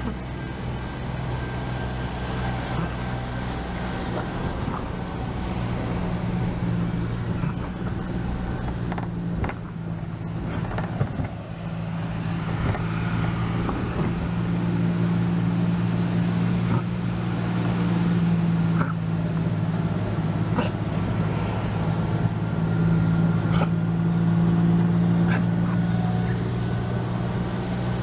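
A motor running steadily with a low, even hum that grows slightly louder over the stretch.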